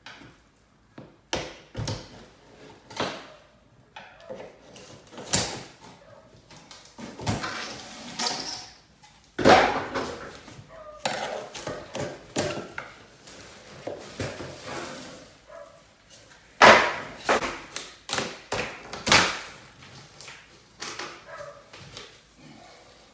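Trim being pried and pulled off by hand: an irregular string of sharp cracks, snaps and scraping creaks of wood and nails coming loose, some of them loud.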